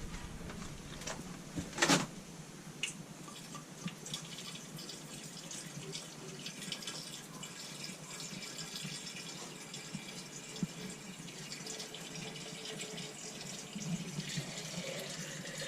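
Water being poured into the radiator of a Tata 407 to top up the coolant, a steady splashing trickle. A sharp knock about two seconds in.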